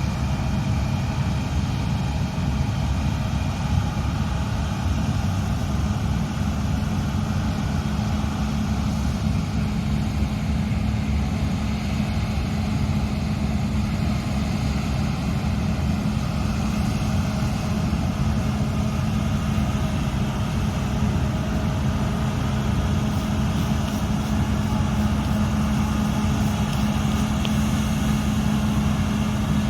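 Combine harvester running steadily under harvest load: a heavy diesel engine holding a constant speed, with the machine's threshing and drive noise underneath.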